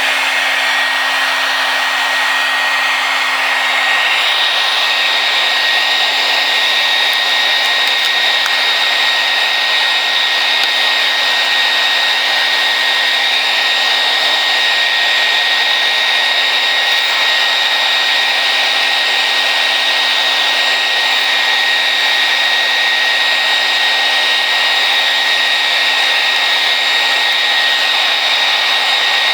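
Handheld hair dryer running steadily on high, a constant loud blowing with a steady high whine from its motor, used to heat and soften glued-down floor tile.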